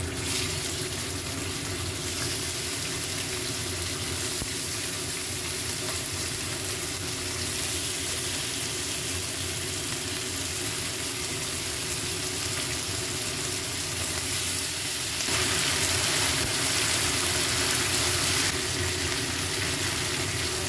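Chicken pieces sizzling as they fry in hot oil in a wok, a steady hiss that grows louder for a few seconds about three-quarters of the way through. A spatula turns the pieces near the end.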